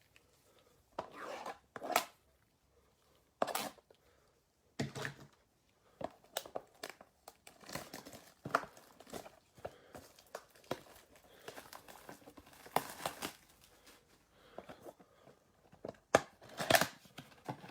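Plastic shrink wrap being torn off a sealed trading-card blaster box and the cardboard box torn open: a run of separate tearing, crinkling and rustling sounds with short gaps between them.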